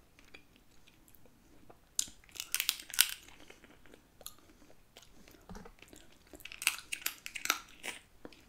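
Close-up eating sounds: a person chewing and biting seafood. The crisp, clicky mouth noises come in two clusters, about two seconds in and again near the end, with quiet between.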